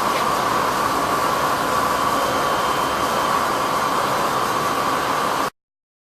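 Steady mechanical hum and hiss without any rhythm, cutting off abruptly about five and a half seconds in.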